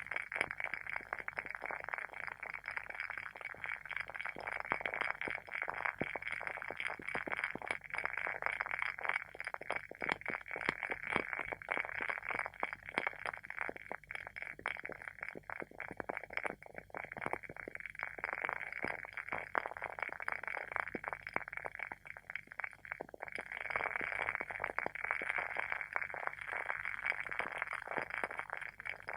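WoodWick candle's wooden wick burning, crackling continuously with dense, rapid pops over a soft hiss.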